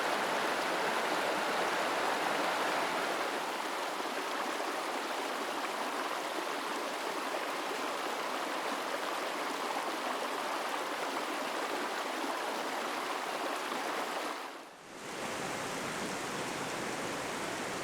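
Mountain stream water rushing steadily. The sound dips briefly about fifteen seconds in and then carries on at the same level.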